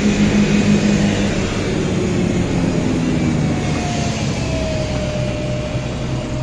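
Heavy farm diesel engine running under power, its pitch dropping after about a second and a half as it is throttled back. A faint whine slides slightly downward in the second half.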